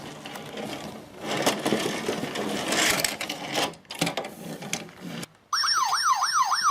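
A busy plastic rattling and clattering from a toy playset, with a few sharp clicks around four seconds in. About five and a half seconds in, a toy's electronic siren sound switches on abruptly: a loud, rapid up-and-down wail, set off by a sound button.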